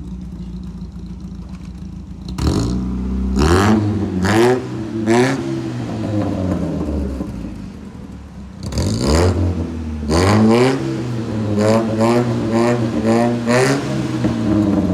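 Car engine idling, then revved in a series of short blips, the pitch rising and falling quickly each time, with a faster run of revs near the end. The car is loud.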